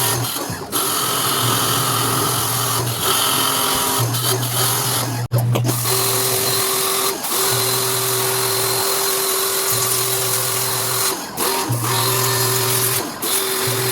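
Panasonic automatic washing machine running, its motor humming in on-off pulses of about a second with short pauses between, as when the drum agitates back and forth.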